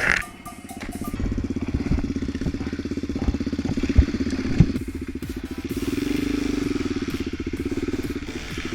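Off-road vehicle engine running steadily at low revs, swelling a little about six seconds in, with two sharp knocks around four seconds in.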